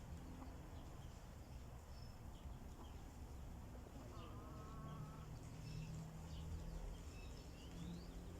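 Faint buzzing of a flying insect that grows louder after about half-way, with scattered short high chirps of small birds.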